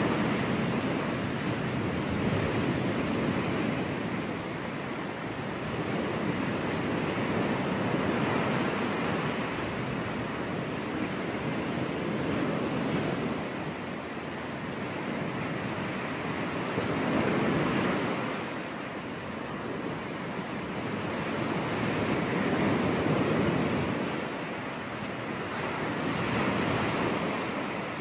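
Ocean surf breaking on a beach: a steady wash of waves that swells and eases every few seconds.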